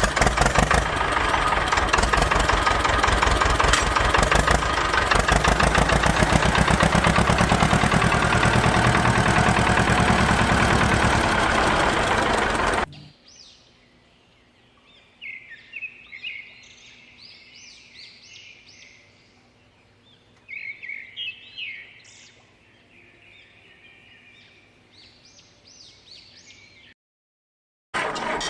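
Small engine of a model mini tractor running loudly with a fast, even pulse, cut off suddenly about thirteen seconds in. Birds then chirp faintly in short bursts, and after a moment of silence the engine comes back right at the end.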